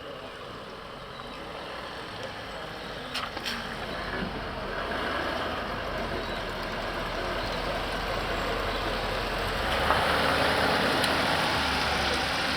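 A vehicle running, its noise growing steadily louder, with a further rise about ten seconds in.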